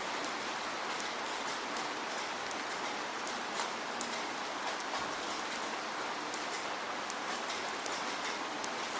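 Steady rain falling, an even hiss with many small drop patters scattered through it and a few sharper drips about four seconds in.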